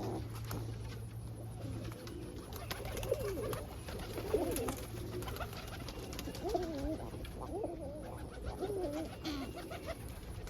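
Roller pigeons cooing: several wavering coos one after another and overlapping, over a steady low hum.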